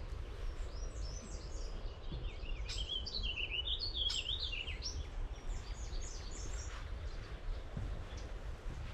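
A songbird singing a fast, jumbled warbling song of quick high notes, lasting a few seconds and fading out near the end, over a steady low rumble.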